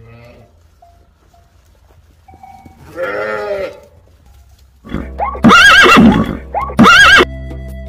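Farm animals calling: one call about three seconds in, then two much louder calls with a bending pitch about two and a half and four seconds later. A steady musical backing comes in under them about five seconds in.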